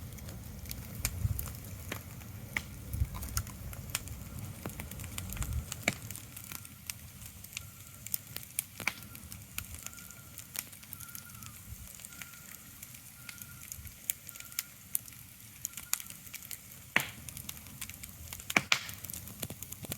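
Irregular crackling: sharp scattered pops over a faint steady hiss. A low rumble underneath drops away about six seconds in.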